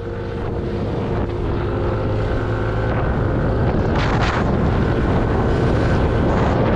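A motorcycle under way, with wind rushing over the helmet microphone, getting louder over the first couple of seconds.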